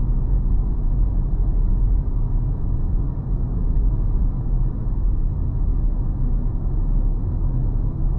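Steady low rumble of a car on the move: road and engine noise heard while driving.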